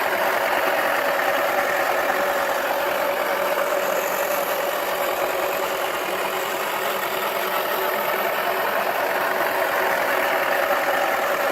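Wacky Washer toy washing machine running: its small electric motor buzzes steadily while the plastic drum spins and rattles, with the whole toy vibrating.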